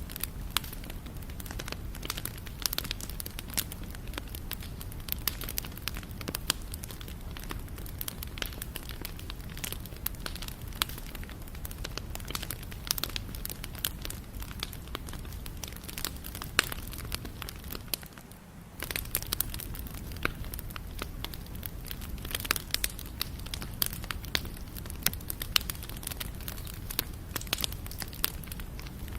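Wood campfire burning: irregular sharp crackles and pops of burning wood over a low steady rumble. The sound briefly drops away about two-thirds of the way through.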